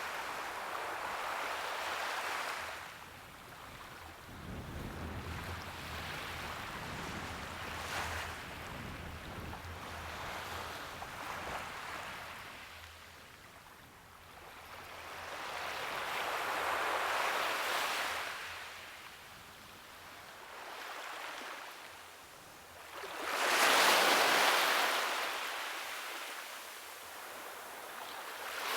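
Sea waves washing onto the shore, the surf swelling and fading in slow surges every several seconds, the loudest near the end.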